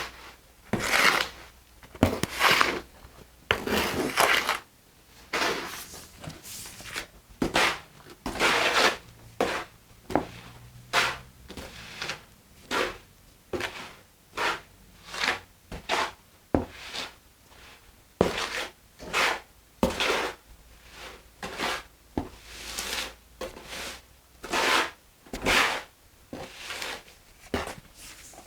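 Mortar being mixed by hand: a tool scrapes and scoops through the wet mix in a container, in short repeated strokes about one a second.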